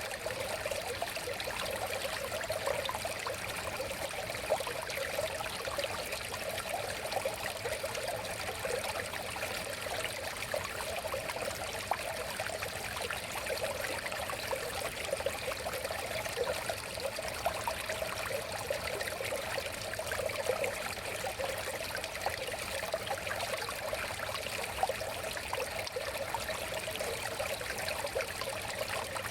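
River water flowing and babbling steadily over stones, an even rush with many small trickling splashes.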